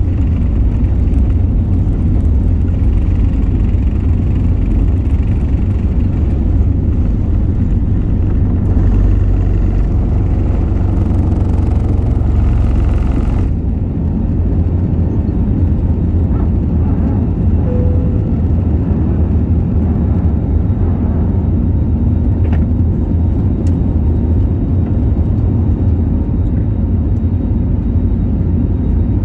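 Jet airliner takeoff heard from inside the passenger cabin: a loud, steady low rumble of engines and airflow. About 13 seconds in, the higher hiss drops away suddenly while the rumble continues.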